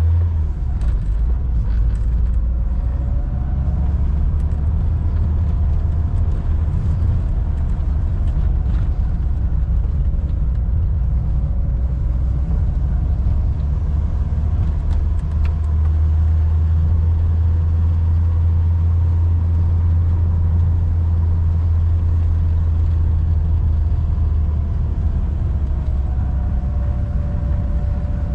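1988 VW Golf Mk1 Cabriolet's 1.6-litre four-cylinder engine running as the car drives along, its note drifting gently up and down. A steady low rumble from the open top dominates.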